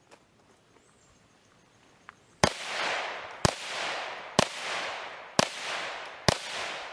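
Five gunshots from a Ruger Charger pistol, fired at a steady pace of about one a second, starting about two and a half seconds in; each shot is followed by a long echo.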